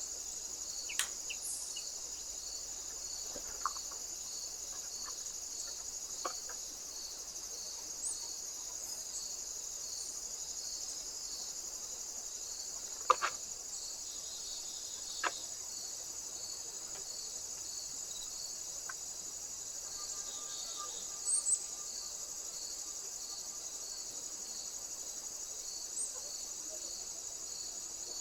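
Steady chorus of crickets: a continuous high-pitched trill with a softer note pulsing evenly beneath it. Several short sharp clicks or taps break in here and there, the loudest about halfway through.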